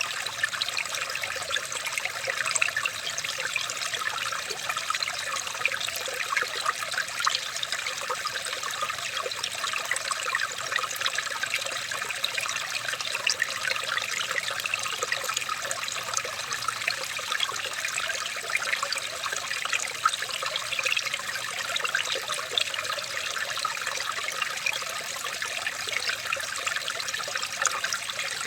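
Running water: a steady rush dotted with many small splashes, like a stream or brook flowing over stones.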